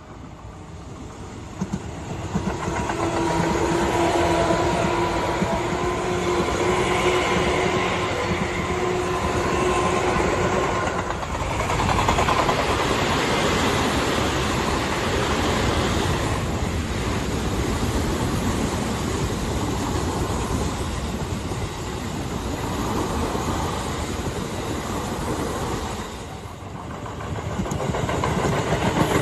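Tobu Tojo Line electric train running past on the rails, building up over the first few seconds, with a steady tone for several seconds in the first half. It dips briefly near the end, then rises again.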